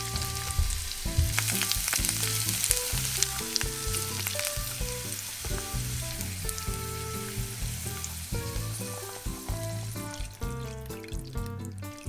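Turnip wedges sizzling as they fry in sesame oil in a nonstick frying pan, loudest in the first few seconds and easing off later, under background music.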